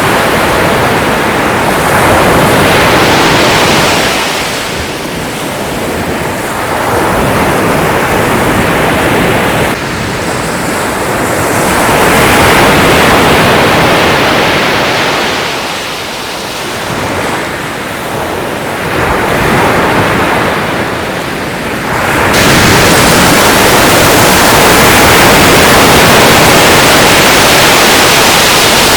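Sea waves breaking and washing back, the rush of water swelling and ebbing every few seconds. About two-thirds of the way through, the sound changes suddenly to a steady, louder hiss.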